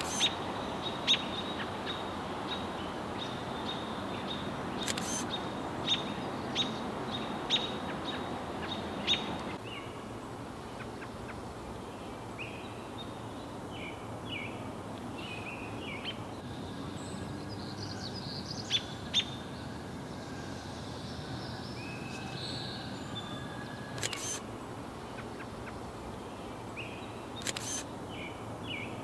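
Outdoor birdsong against steady background noise: sharp clicking notes about once a second for the first nine seconds, then short chirping song phrases scattered through the rest.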